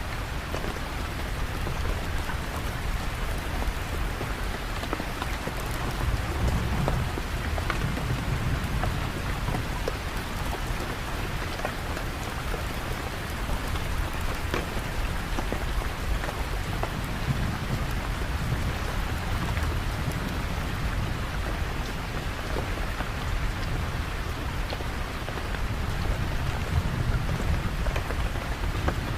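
Steady, dense rain falling, with low rumbles of distant thunder swelling up several times.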